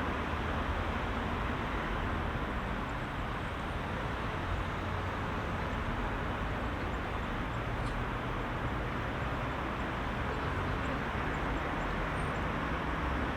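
Heavy rush-hour city traffic: a steady wash of car engines and tyre noise with a low engine rumble underneath, no single vehicle standing out.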